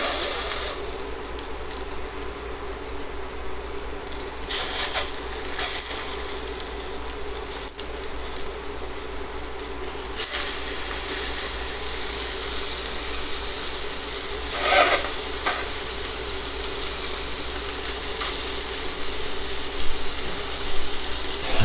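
Sea scallops searing in hot avocado oil in a stainless-steel pan, sizzling. The sizzle flares up each time another scallop goes in, about four and a half, ten and fifteen seconds in, and stays loudest after the jump at ten seconds. A steady low hum runs underneath.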